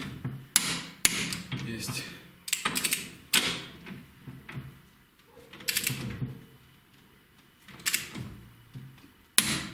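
Click-type torque wrench set to 80 N·m and working a bolt on the motorcycle's fork clamp: a run of sharp metallic clicks and knocks. The wrench clicks as the set torque is reached.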